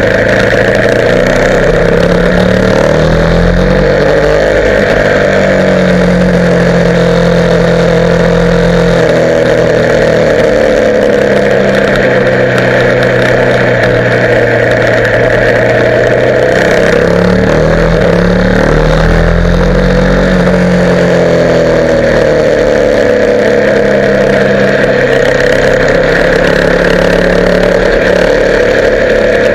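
Motorcycle engine running steadily, its pitch rising and falling as engine speed changes a couple of times.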